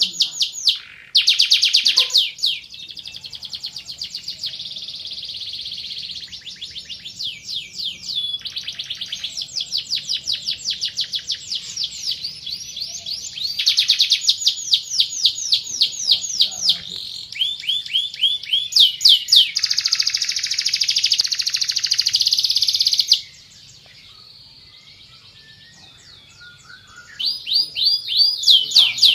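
Van Hesterling song canary singing long runs of fast, repeated trilled notes, phrase after phrase. It pauses for a few seconds near the end, then starts again.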